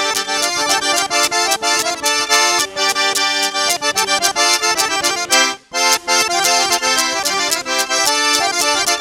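Traditional dance music led by an accordion, with a steady percussive beat; it breaks off briefly about five and a half seconds in, then carries on.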